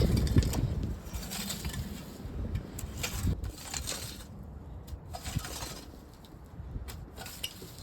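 Garden hoe scraping through soil and small stones in a series of short strokes, busiest in the first few seconds and sparser later.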